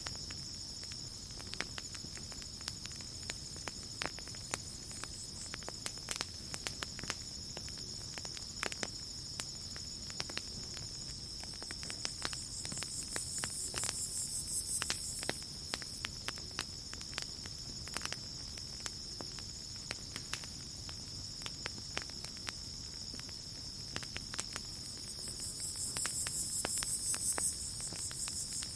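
Crickets trilling steadily over a crackling campfire with frequent sharp pops. A higher insect buzz swells up twice, about halfway through and near the end.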